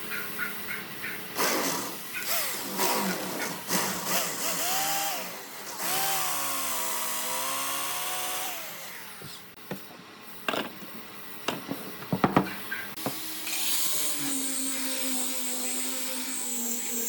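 Woodworking power tools run in short bursts between clicks and sharp knocks, an electric motor's pitch wavering as it works. About thirteen seconds in, a motor settles into a steady hum with a high hiss.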